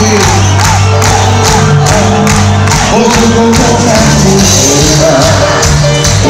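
Live cuarteto band music with a steady, fast percussion beat, a repeating bass line and melodic instrument lines.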